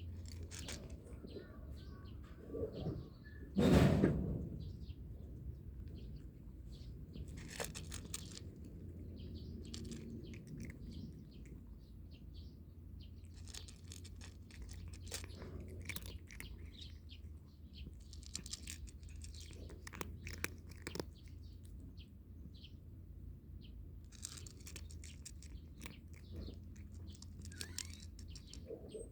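Birds chirping in short, scattered calls over a steady low hum, with one loud thump about four seconds in.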